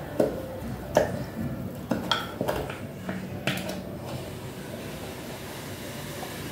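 Hard parts being handled: about seven sharp clicks and knocks in the first four seconds, then only a steady low hum.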